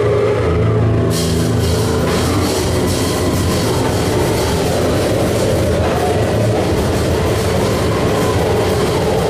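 Harsh noise music: a loud, unbroken wall of distorted sound over low droning tones. About a second in, a hissing high layer cuts in and stays.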